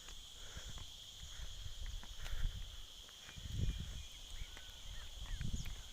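A steady high-pitched chorus of insects such as crickets in forest, with a few short bird chirps. Low rumbles on the microphone come and go and are loudest about three and a half seconds in.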